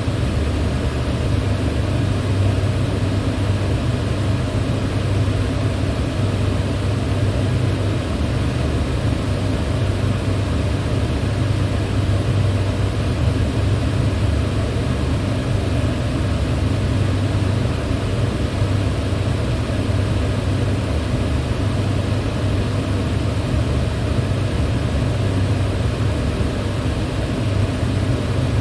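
Electric fan running steadily: an even rush of moving air over a low hum, with no change in speed or level.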